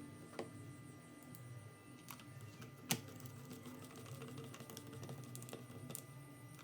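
Scattered small clicks and taps of hands working on small parts, with one sharper click about three seconds in, over a steady low hum.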